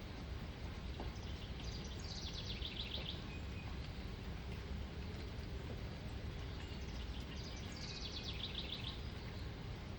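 A small songbird sings twice, about five seconds apart. Each song is a quick trill of notes falling in pitch, over a steady background hiss.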